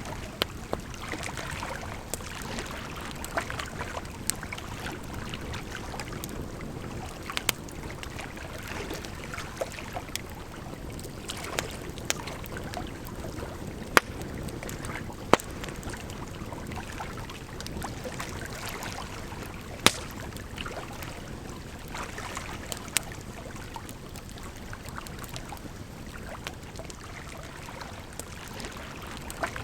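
Wood fire crackling with irregular sharp pops, a few of them much louder, over a steady rush of flowing water.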